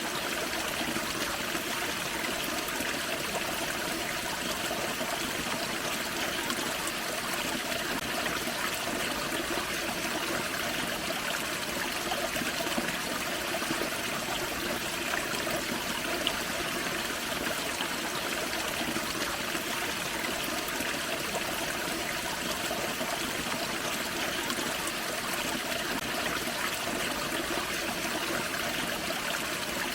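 A small forest creek waterfall: water splashing and trickling over rocks in a steady, unbroken rush.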